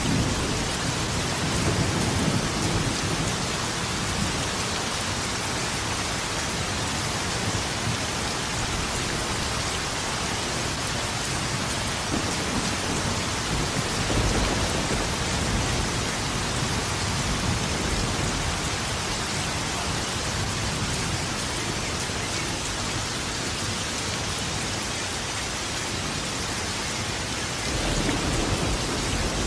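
Steady rain with thunder rumbling low underneath, swelling near the start, again about halfway through, and once more near the end.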